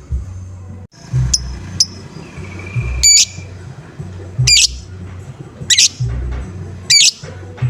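Lovebird giving short, sharp 'ngoek' calls, about six in all at roughly one- to one-and-a-half-second intervals, each a quick rise and fall in pitch. A steady low music beat plays under the calls.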